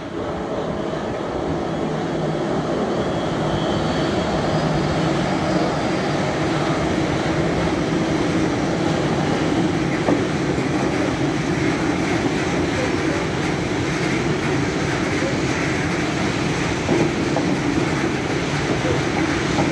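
Freight train hauled by two DB class 185 electric locomotives passing close by. The sound of its wheels running on the rails builds over the first few seconds, then goes on steadily as a long line of hopper wagons rolls past.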